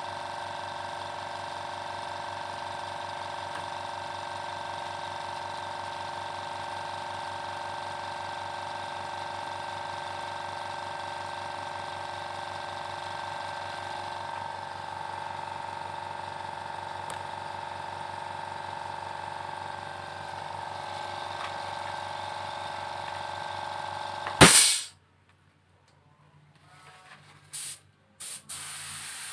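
Electric air compressor for a paint spray gun running with a steady hum. Near the end there is one sharp loud click, the hum stops abruptly, and a few faint clicks follow.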